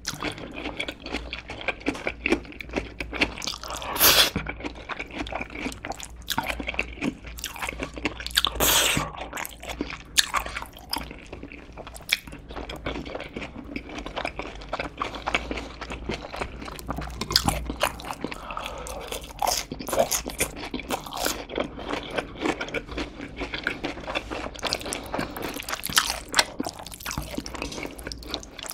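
Close-miked eating: a person chewing and crunching mouthfuls of food, with many small wet mouth clicks and a few louder crunches, the strongest about 4 and 8 seconds in.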